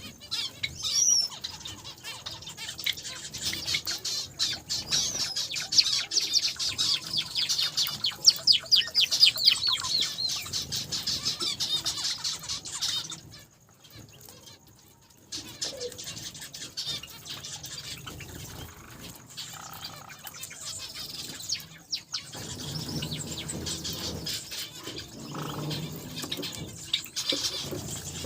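A mixed flock of small cage finches (Java sparrows, zebra finches and others) chirping busily, with wings fluttering. The chirping is dense for the first half, drops away for a moment about halfway through, then goes on more quietly.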